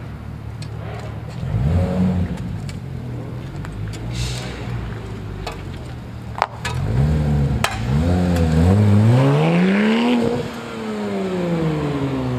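Performance car engine idling, then revved: a short blip, a run of quick blips and one longer rev that climbs and falls back near the end, with a few sharp cracks among the blips.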